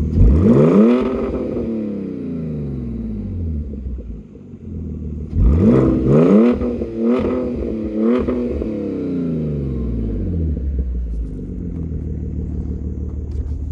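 2003 Audi A4 engine running with its exhaust cut off, idling and revved: one rev that climbs and falls back just after the start, then a second rev about five seconds in with several quick blips of the throttle before it settles back to a steady idle.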